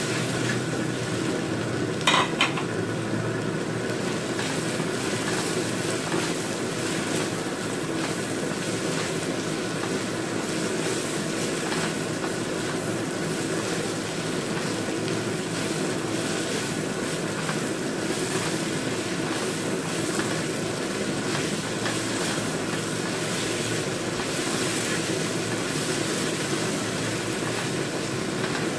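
Sliced red chilies and garlic sizzling in hot oil in a steel wok, stirred and scraped with a plastic spatula, with one short knock of the spatula on the wok about two seconds in.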